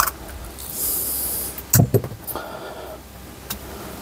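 Handling noises from work on a foot dimmer switch and its wiring: sharp clicks, a brief hiss about a second in, and a loud thump just before two seconds.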